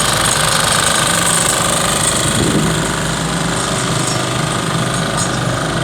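Mini road roller running steadily with a loud, fast, rattling engine and machine noise; the low part of the sound briefly shifts in pitch about two and a half seconds in.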